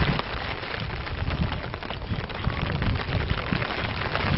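Rain pattering steadily, a dense patter of drops falling close to the microphone, with uneven low rumbles of wind underneath.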